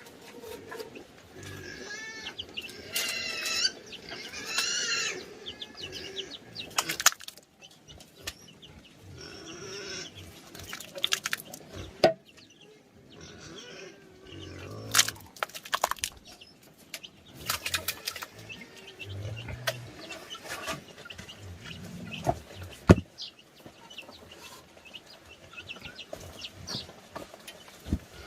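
Farmyard animal sounds: chickens clucking and calling, among scattered knocks and clatter.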